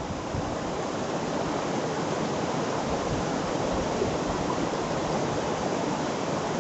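River flowing, a steady even rush of water.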